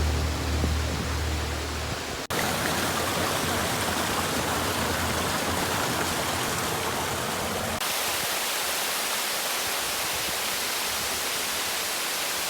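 Background music ends about two seconds in, then the steady rushing of a tall waterfall.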